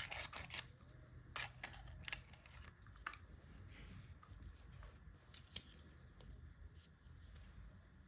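Toys and plastic packaging being handled during an unboxing: a few soft clicks, crinkles and short rasps, some in quick little clusters, with pauses between them.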